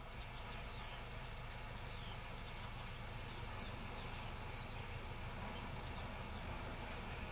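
Birds singing short high falling notes, repeated every second or so, over a faint steady low rumble and hiss.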